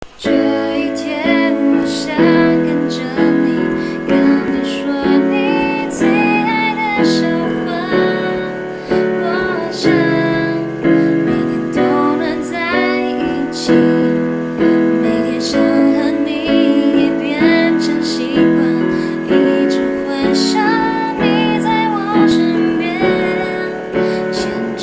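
A woman singing a slow Mandarin pop ballad over piano accompaniment.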